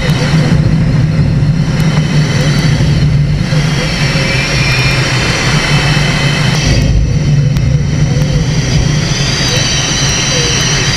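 Small light-aircraft engine running steadily in flight, a constant drone with no change in pitch.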